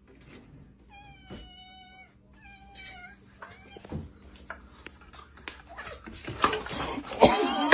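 A cat meowing: one long meow about a second in and a shorter one at about three seconds, with light knocks between and louder calls near the end.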